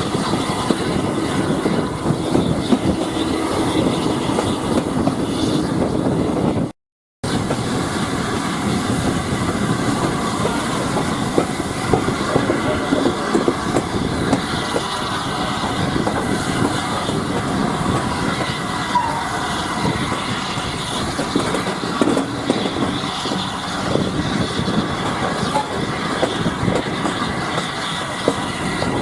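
Railway passenger carriage running along the track: a steady rumble of the wheels with irregular clicking and clacking over the rails. The sound drops out completely for a moment about seven seconds in.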